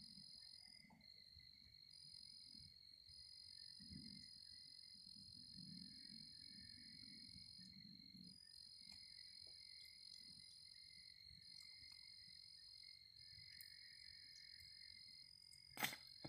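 Faint steady high-pitched trilling of night insects, several overlapping tones, some breaking off and resuming every few seconds. A single sharp click near the end.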